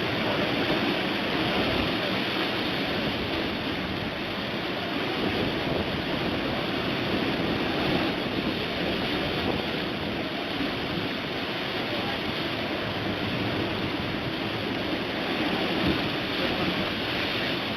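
Sea waves and wind making a steady rushing noise, with no breaks or distinct hits.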